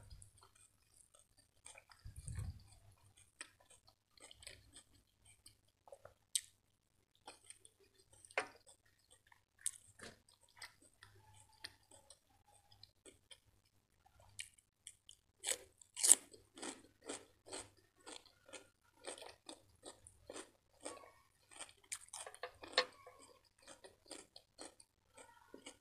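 Close-miked eating: soft, sparse chewing of rice and butter chicken, then from about halfway a steady run of crisp crunches, about two a second, from chewing fresh cucumber.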